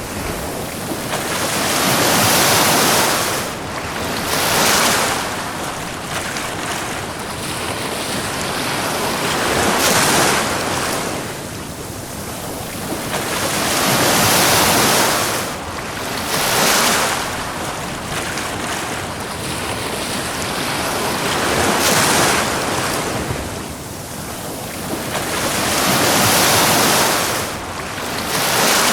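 Ocean waves breaking and washing up a beach, surging louder every few seconds and then draining back.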